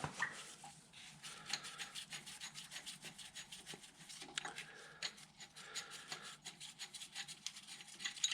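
Toothed rubber timing belt being worked by hand off the pulleys of a Suzuki Alto 1.1 16-valve engine. It rubs and scrapes against the pulleys and cover in runs of rapid light ticks.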